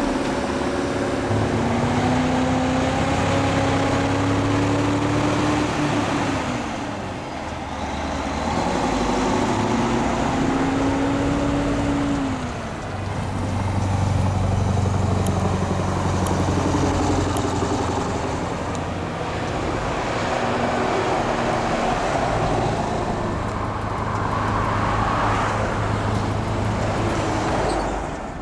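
Mack Superliner's V8 diesel engine pulling a heavy load, its pitch climbing for several seconds and then dropping back as it changes gear, about seven and twelve seconds in.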